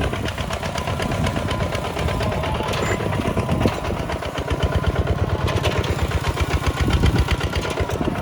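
Kubota tractor's diesel engine running steadily, with a rapid, even firing beat.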